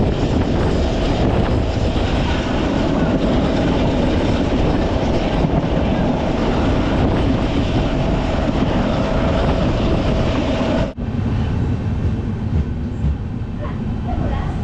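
Express passenger train running at speed, heard at an open coach window: a steady rush of wheels on rail with a steady whine. About eleven seconds in it cuts abruptly to quieter running.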